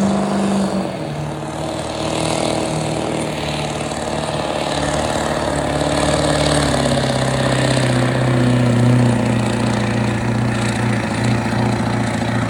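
Stock diesel pickup truck pulling at full throttle. The engine's pitch drops about a second in and keeps sinking as the sled's weight pulls the revs down.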